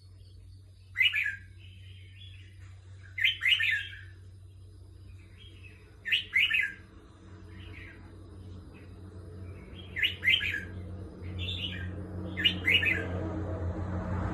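Caged red-whiskered bulbul singing short, loud phrases, six in all, a second to a few seconds apart. A steady low hum runs underneath, and a hiss grows louder near the end.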